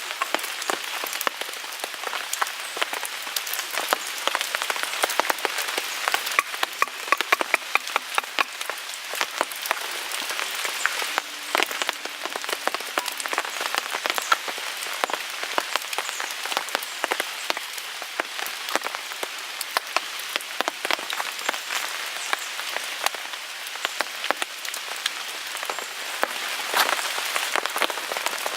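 Wood fire crackling and popping in a Picogrill 398 folding fire pit, a dense run of sharp snaps, with rain pattering on a tarp overhead. A cluster of louder pops comes about seven to nine seconds in.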